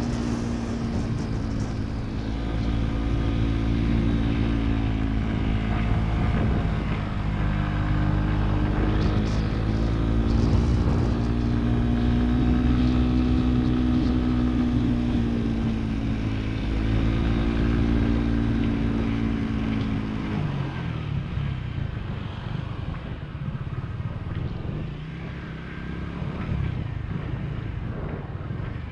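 Motorcycle engine running at steady cruising revs, its note rising and falling a little. About two-thirds of the way in, the revs drop and the engine note falls to a lower, rougher sound as the throttle closes.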